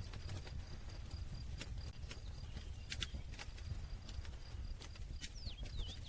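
Wood campfire crackling, with sharp, irregular pops and snaps over a low, steady rumble of flames.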